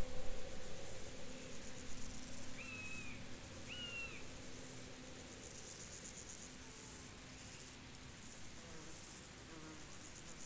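Field insects trilling in high-pitched, fast-pulsing stretches that swell and fade. Two short bird chirps come about three seconds in.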